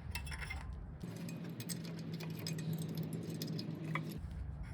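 Light metallic clinks and jingling of small engine parts being handled as the carburetor spring and linkage are worked loose on a Briggs & Stratton mower engine, with scattered small clicks. A low steady hum comes in about a second in and stops shortly before the end.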